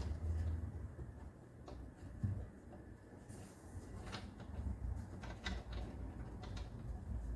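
Scattered light clicks and knocks of objects being handled, a handful over several seconds with a brief hiss in the middle, over a low steady hum.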